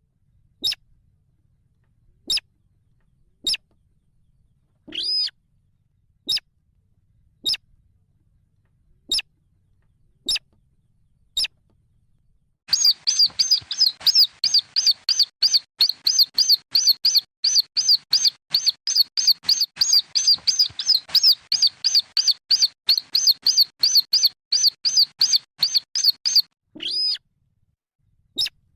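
Recorded calls of young rails (sintar/weris), short and high-pitched. Single sharp calls come about once a second for the first half, then a fast unbroken run of calls for about thirteen seconds, then single calls again near the end.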